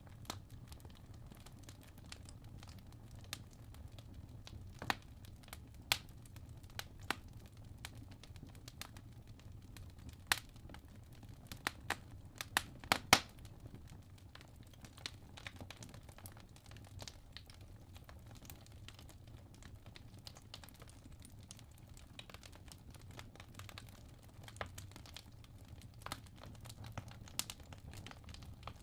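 Wood logs burning in a fireplace: a low steady fire hiss with irregular sharp crackles and pops, a cluster of the loudest pops about halfway through.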